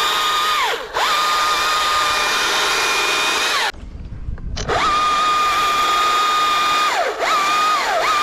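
Battery-powered chainsaw being run in bursts: the electric motor's high whine spins up, holds steady for one to three seconds and winds down, three times, then is blipped in short quick pulses near the end.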